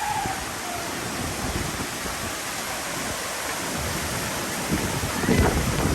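Tropical-storm wind rushing steadily. Heavy gusts buffet the microphone about five seconds in.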